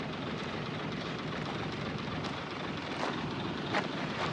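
Heavy diesel earthmoving machinery running steadily, with a few sharp metallic clanks in the second half.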